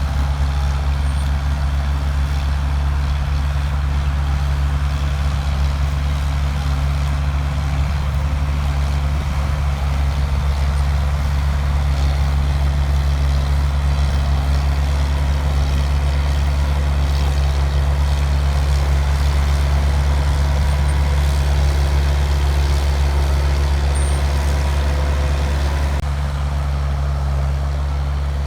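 Bulldozer's diesel engine running steadily, a loud low even sound that eases slightly near the end.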